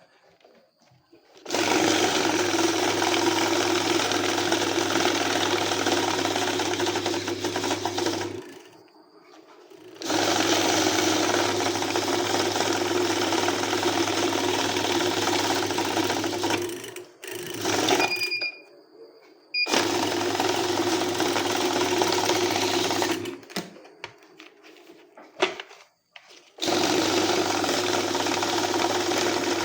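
Electric banknote counting machine whirring through stacks of notes in four runs, each lasting several seconds, with short pauses between them. Short electronic beeps sound after the second run and again near the end.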